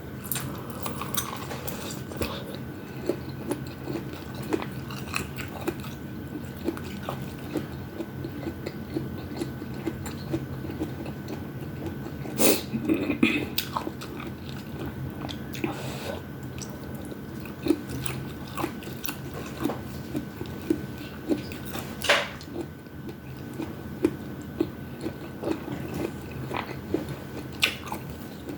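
Close-miked chewing and biting of food, with many small wet clicks and crunches. Sharper, louder crunches come about a third of the way in and again past the middle.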